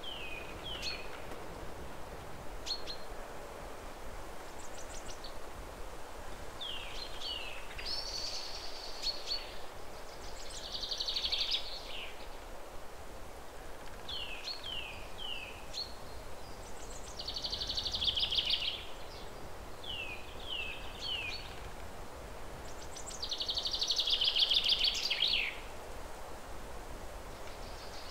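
Birds chirping: sets of three or four quick falling chirps alternate with longer buzzy trills, about one phrase every six or seven seconds, over a steady hiss.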